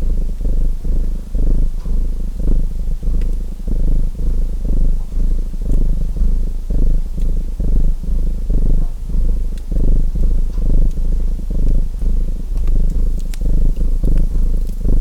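Domestic cat purring close up: a low rumble that swells and fades in a steady rhythm, about two swells a second, with the faint crackle of a wood fire.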